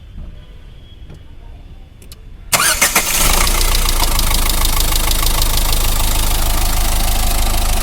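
Diesel car engine starting suddenly about two and a half seconds in and settling within a second into a steady idle. It runs without the compression-leak noise from the injector, now that the worn injector copper washer has been replaced.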